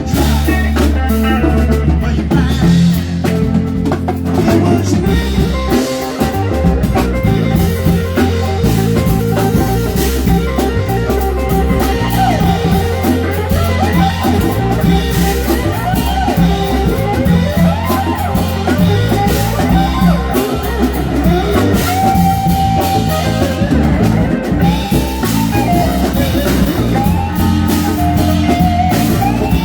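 Live band playing an instrumental passage, with guitar over a drum kit and a steady low end, and no vocals.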